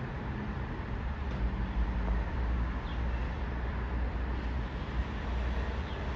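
Steady low outdoor rumble of vehicles, with a few faint, short, high chirps spaced about a second and a half apart.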